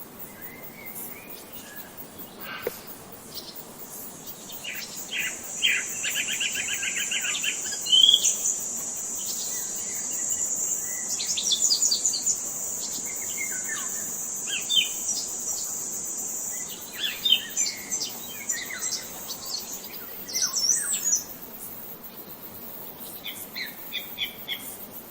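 Several songbirds chirping and calling, one with a fast trill, over a steady high-pitched buzz that runs from a few seconds in until about 20 seconds in.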